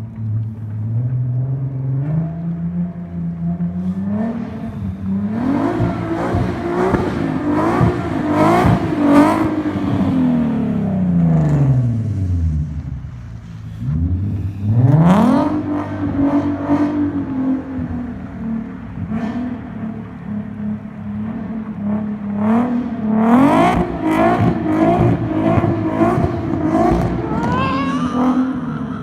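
Nissan 370Z's 3.7-litre V6 through an ISR single-exit exhaust with test pipes, revving up and held at high revs for several seconds, then dropping back almost to idle about twelve seconds in. It revs hard again a couple of seconds later and stays high for most of the rest, with brief dips, easing off near the end.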